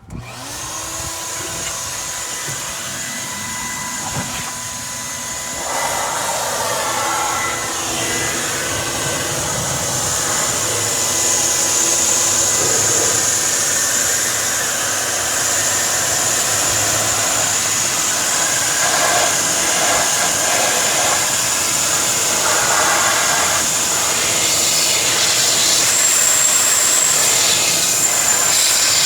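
An electric motor switches on suddenly and runs steadily with a high whine over a rushing noise, like an air blower or vacuum.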